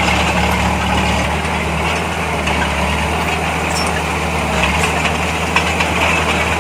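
Heavy diesel engine of earthmoving machinery running steadily at a low, even speed.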